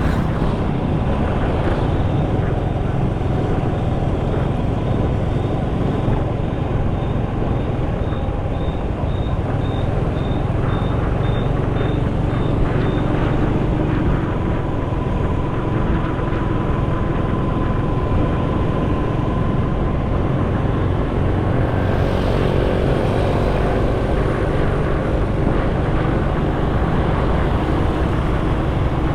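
Motorcycle riding on the road: engine, tyre and wind noise on the action-camera microphone, with passing traffic. A faint high beeping repeats about twice a second for roughly ten seconds in the first half.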